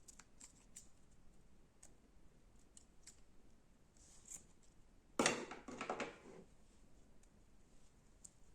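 Slime being handled: faint scattered sticky clicks, then one loud crackling squish about five seconds in that lasts about a second.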